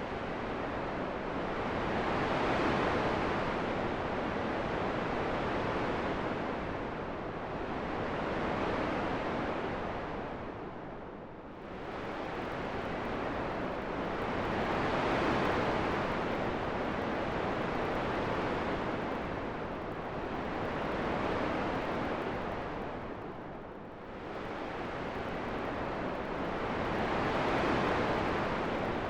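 Steady rushing wind noise that rises and falls in slow swells, easing off twice about twelve seconds apart.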